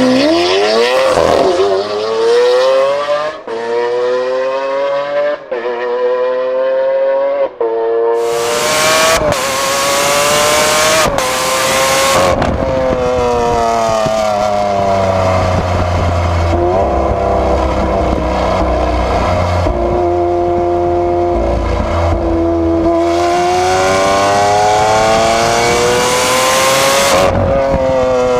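Lamborghini Aventador V12 running through a Capristo aftermarket exhaust, accelerating hard, its note climbing and cutting off sharply at each of several quick upshifts in the first seconds. It then gets louder and rougher, and later the pitch sinks and climbs again as the engine revs fall and rise.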